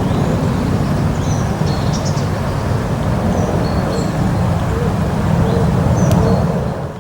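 Small birds chirping faintly, short high calls scattered through, over a loud steady low rumble.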